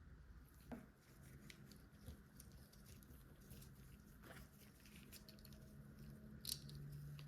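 Faint clicks and taps of plastic LEGO pieces being handled and pressed together: a few separate clicks a second or two apart, the sharpest near the end, over a faint low hum.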